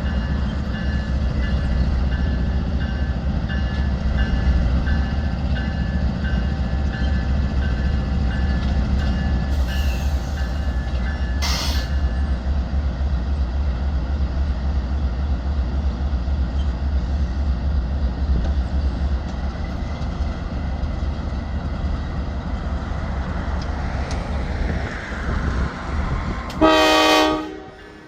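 Freight train rolling past with a steady low rumble of cars on the rails, with a single sharp clank partway through. The rumble thins out, then a short locomotive horn blast of about a second sounds near the end.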